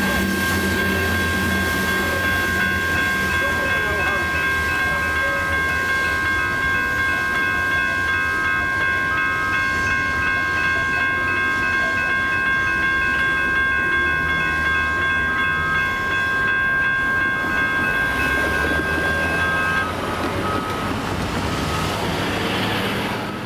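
Grade-crossing electronic bells ringing steadily over the low rumble of a freight train rolling through the crossing; most of the bells cut off about 20 seconds in while the train keeps rumbling past.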